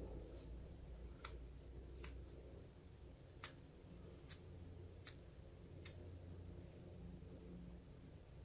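Nail file scraping the edge of nail polish strips on a fingerboard truck hanger in six short, sharp strokes a little under a second apart, filing the excess strip away.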